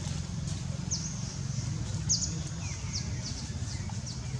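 A bird chirping repeatedly: about ten short, high calls that sweep downward, a couple of them doubled, spaced a third to half a second apart, over a steady low hum.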